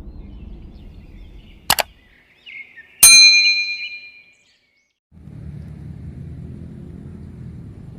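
A short click, then a sharp metallic clang that rings on with several clear tones and dies away over about a second.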